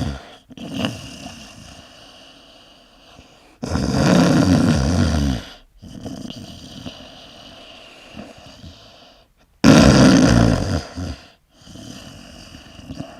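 A person snoring: two long, loud, rough snores about six seconds apart, with quieter breathing sounds between them.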